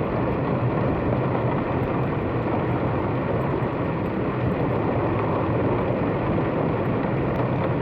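A vehicle ride's steady engine hum under a constant rushing noise, unchanging throughout.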